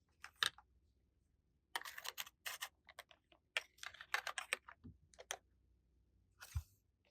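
Light clicks and taps of small plastic toy pieces being handled and set down, in irregular clusters, with a soft knock near the end.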